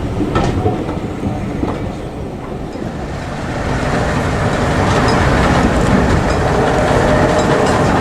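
A train running along the track, its wheels clicking over the rails, getting louder from about three seconds in.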